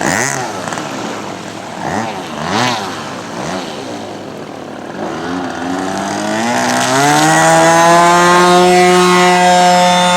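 Radio-controlled scale Maule seaplane's model engine running, its pitch rising and falling for the first few seconds. From about five seconds in it climbs to a loud, steady full-throttle note, typical of the model powering away from a touch-and-go on the water.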